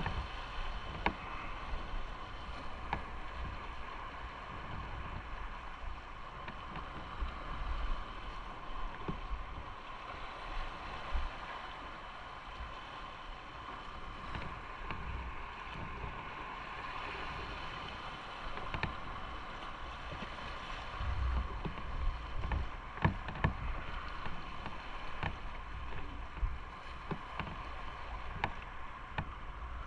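Motorcycle under way: the engine runs at a steady drone while wind rumbles unevenly on the microphone, with a few sharp ticks.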